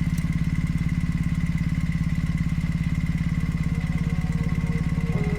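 Motorcycle engine running steadily at low revs, its firing making an even, rapid pulse.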